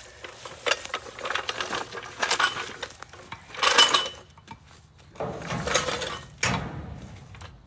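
Metal hand tools clinking and rattling as they are handled, in three bouts of sharp knocks, the loudest about four seconds in.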